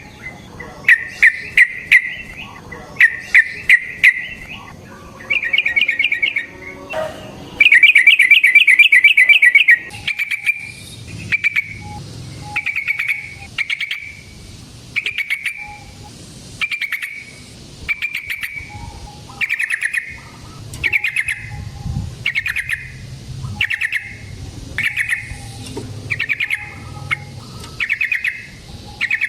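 Yellow-vented bulbul (trucukan) calling: a few loud, fast rattling phrases in the first ten seconds, then short bubbly calls repeated about once a second.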